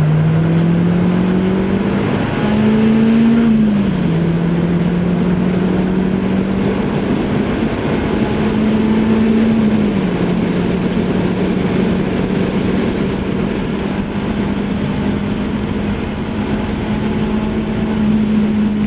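MG F Trophy 160's 1.8-litre four-cylinder engine running hard at high revs down a straight. Its pitch climbs slowly, drops a little about 4 and 10 seconds in as it shifts up, and starts to fall near the end. Steady wind and tyre noise run underneath.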